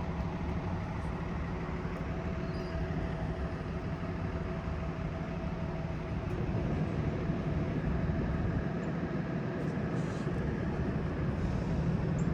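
2017 Blue Bird Vision school bus engine running with its engine cooling fan going, a steady whirring drone with a faint constant tone over it. It gets a little louder about six seconds in.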